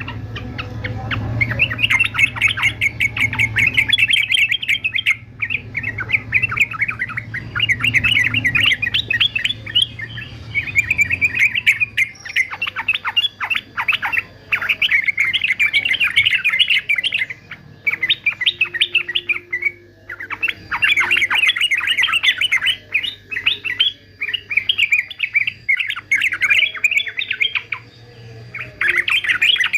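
Male yellow-vented bulbul singing: long runs of rapid, bubbling chattering phrases, broken by short pauses.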